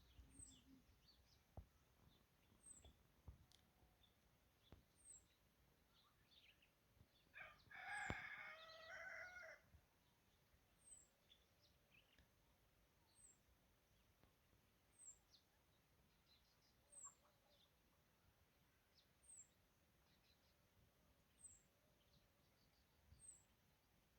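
A rooster crowing once, faint, for about two seconds about a third of the way in. A thin, high, short chirp repeats about every two seconds, with scattered small bird chirps.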